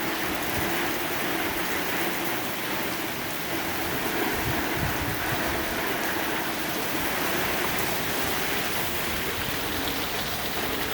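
Heavy thunderstorm rain pouring down with strong gusting wind, a steady even noise with no break. The wind gusts are estimated at about 50 mph.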